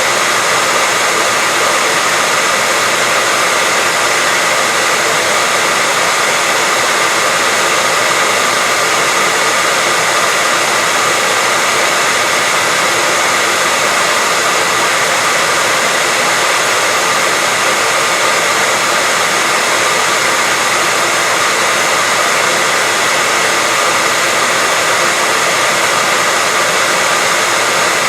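Hair dryer blowing steadily: an even, unchanging rush of air with a faint motor whine on top.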